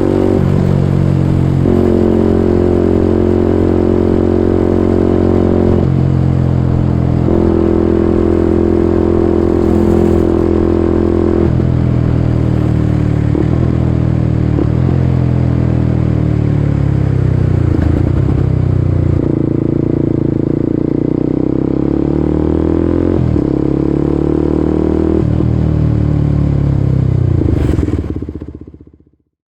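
Kawasaki Ninja 250SL's single-cylinder engine running through a KEA Speed NA 1 aftermarket exhaust, its note holding steady at a few different pitches for the first half, then rising and falling repeatedly. The sound fades out quickly near the end.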